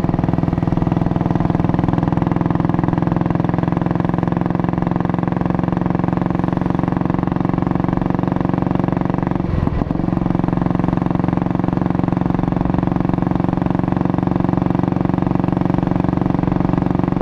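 Junak M10 motorcycle's single-cylinder four-stroke engine running steadily under way, heard from the rider's seat. There is one short break in the engine note about halfway through.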